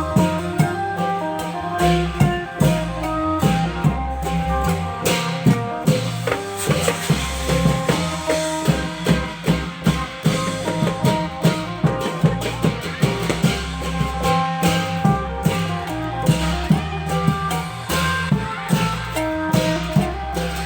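Thai klong yao long-drum band playing: drum strokes in a steady rhythm under a sustained, stepping melody.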